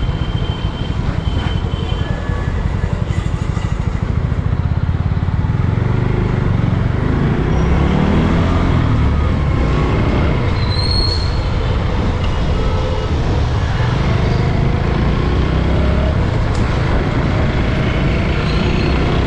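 Motorcycle engine running steadily under way, with its pitch rising as it picks up speed about eight seconds in.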